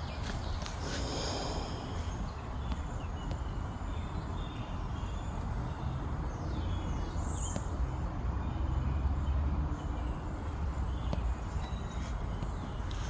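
Low, steady outdoor rumble, most likely wind on the microphone, with a short high chirp a little past halfway.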